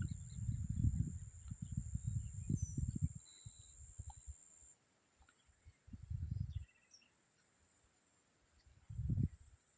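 Outdoor nature ambience: gusts of wind buffeting the microphone come and go as low rumbles. A thin, steady, high insect buzz runs underneath and stops about halfway through, with a few faint bird chirps.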